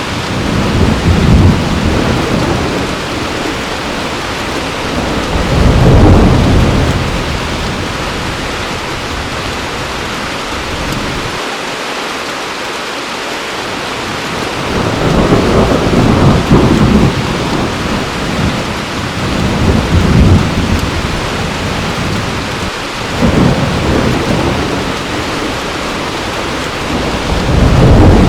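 Heavy steady rain with rolling thunder: deep rumbles swell and fade about half a dozen times, the loudest around 6, 16 and 28 seconds in.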